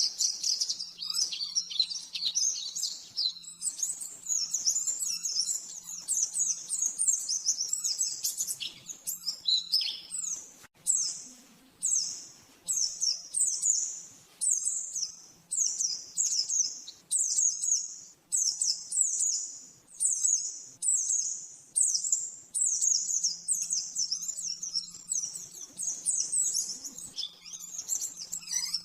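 White-eye (pleci) singing a high, rapid-fire chattering song. About a third of the way in, the song settles into a run of short phrases repeated a little faster than once a second.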